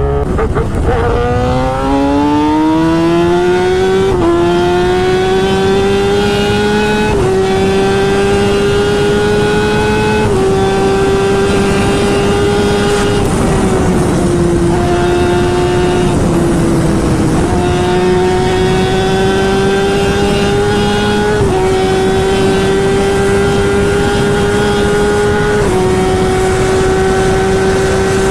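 Kawasaki Ninja ZX-10R inline-four engine pulling hard through the gears at high speed, its pitch climbing and then dropping sharply at each upshift, about every three to four seconds, with a steady rush of wind noise underneath.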